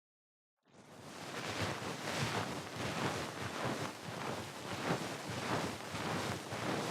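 Ear pick scraping and rubbing close to the microphone in repeated strokes, a few a second, starting after a brief silence.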